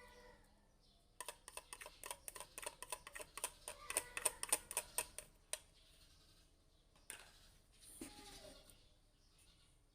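A rapid run of sharp clicks, about eight a second, lasting some four seconds, then one more click a little later.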